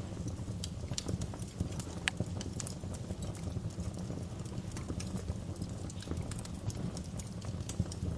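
Wood fire in a fireplace crackling: a steady low rumble of flames with irregular sharp pops and snaps, one louder snap about two seconds in.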